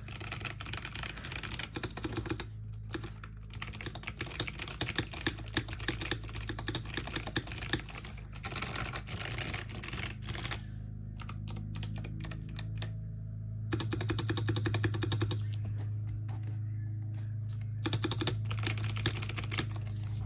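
Typing on a Tokyo60 mechanical keyboard with clicky Kailh Box White switches: fast runs of crisp key clicks that pause briefly about halfway through and again later. A steady low hum runs underneath.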